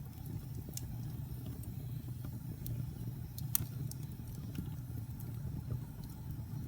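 Wood fire burning in a fireplace: a steady low rumble of the flames with scattered sharp crackles and pops, the loudest pop about three and a half seconds in.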